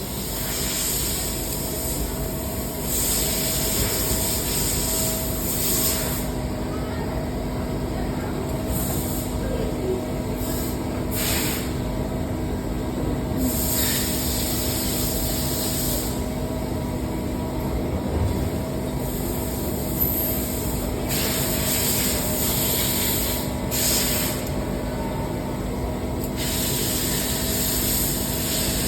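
Machine-shop machinery running with a steady hum and two held tones, with stretches of high hissing that switch on and off every few seconds.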